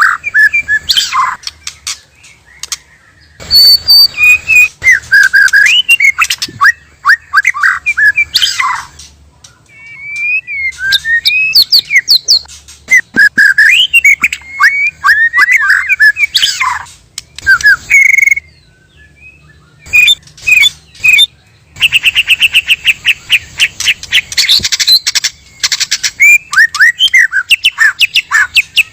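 White-rumped shama (murai batu) song used as a lure call: loud, fast runs of varied sweeping whistles and chirps in bursts, broken by a few abrupt short gaps. About three-quarters through comes a rapid trill of evenly repeated notes.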